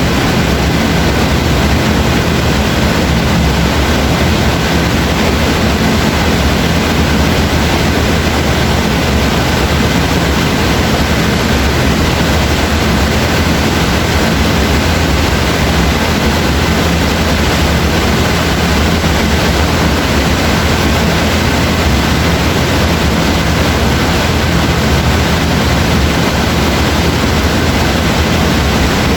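Steady rain, an even unbroken hiss with a deep low rumble underneath.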